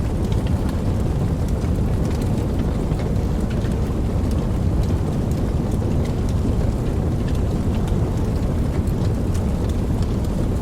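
Campfire burning: scattered sharp crackles and pops over a steady low rumble of the flames.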